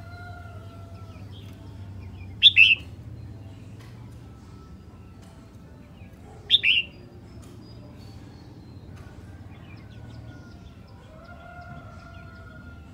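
Red-whiskered bulbul giving two loud, short double chirps about four seconds apart, with fainter drawn-out notes and a low hum behind.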